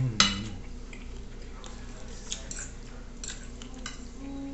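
Close-miked chewing of meatballs in tomato sauce: wet mouth clicks and lip smacks spaced irregularly, with one sharp click about a quarter second in that is the loudest sound.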